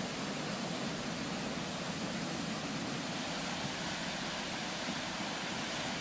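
Steady rushing noise of floodwater, even and unbroken.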